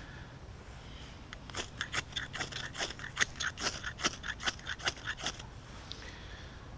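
Ferrocerium rod struck again and again with a scraper to throw sparks onto straw tinder: a quick run of short scrapes, about three or four a second, that starts about a second in and stops about five and a half seconds in.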